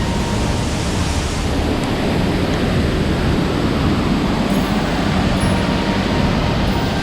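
Loud, steady rush of falling water, an even roar with no breaks.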